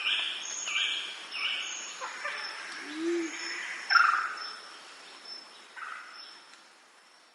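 Birds chirping and calling in a series of short, repeated calls, with a thin high whistle running under them. A single short low call comes about three seconds in, and the loudest call comes near four seconds in. The sound fades out toward the end.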